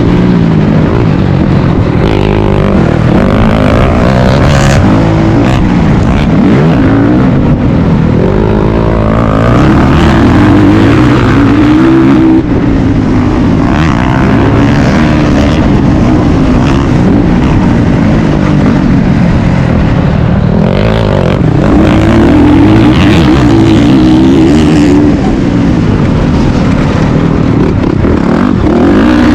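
Dirt bike engine revving up and down continuously under hard riding, loud and close, its pitch climbing and dropping every second or two as the throttle opens and shuts.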